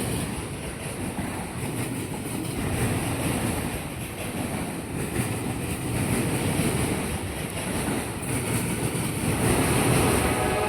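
CSX freight train of autorack cars rolling past, a steady rumble of steel wheels on rail, with a faint ringing tone coming in near the end.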